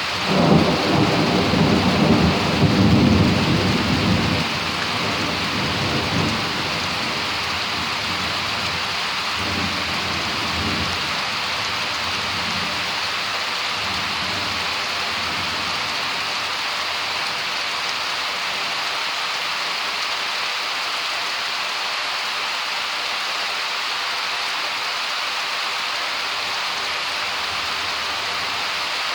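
Rain falling steadily in a thunderstorm. A loud rumble of thunder runs through the first four seconds, weaker rumbles follow, and then there is only the even hiss of the rain.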